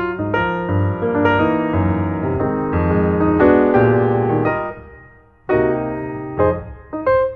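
Piano music: a lively keyboard piece with a bass line, dipping briefly about two-thirds through before the notes resume.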